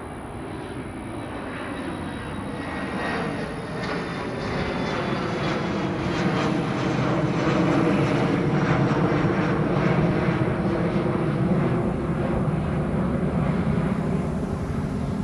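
Jet airliner passing, its engine noise swelling steadily to a peak about eight to ten seconds in, then easing off a little.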